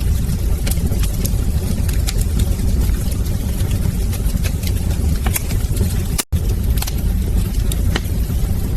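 Wood fire in a fireplace crackling, with frequent sharp pops and snaps over a steady low rumble of the flames. The sound cuts out for an instant about six seconds in.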